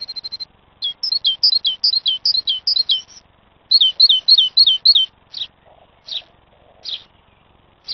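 A songbird singing: the tail of a held whistled note, then two quick runs of six or seven sharp, down-slurred high notes, followed by single notes spaced about a second apart.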